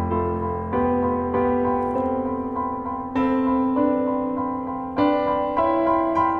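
Background solo piano music: a gentle piece with new chords struck every second or two under a repeating melody.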